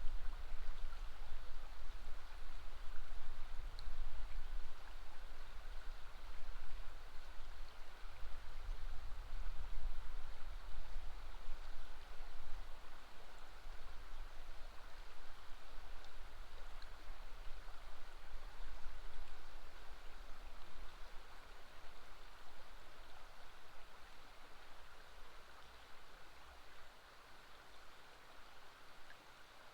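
River water flowing steadily over a low rumble, fading out gradually over the last several seconds.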